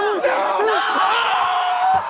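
A small group of people shouting and hollering at once, several voices overlapping, with one long held yell in the second half.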